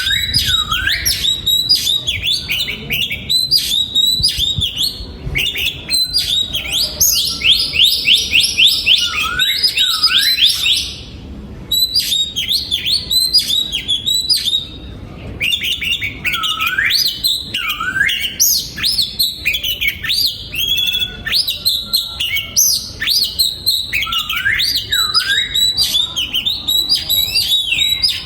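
Oriental magpie-robin singing a long, varied song of gliding whistles and rapid repeated notes, with brief pauses about 11 and 15 seconds in.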